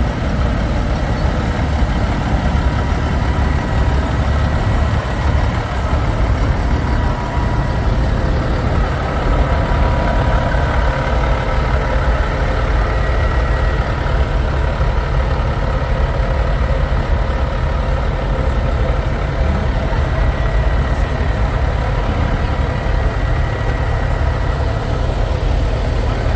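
Semi trucks' diesel engines idling, a steady low rumble.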